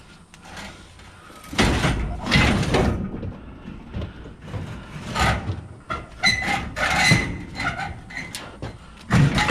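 Metal junk being shoved and dragged into a pickup truck bed: irregular scraping and clanking, with a brief ringing metal screech about six to seven seconds in.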